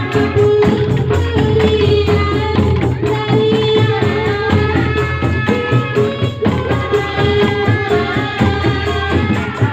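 Sundanese traditional ensemble music: rapid drumming under a held, wavering melody line.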